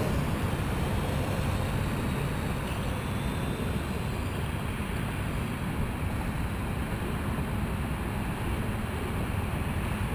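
Steady low wind rumble buffeting the microphone.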